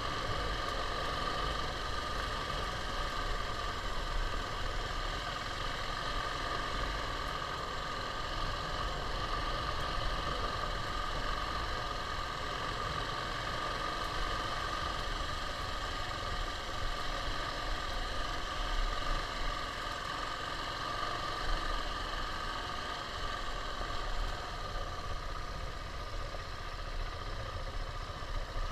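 KTM 690 single-cylinder motorcycle engine running at a steady pitch, with an uneven low rumble underneath.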